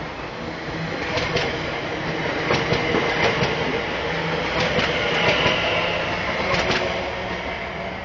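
A Class 730 electric multiple unit running past on the line, its wheels crossing rail joints in paired clacks over a steady rumble. It grows louder towards the middle and fades off near the end.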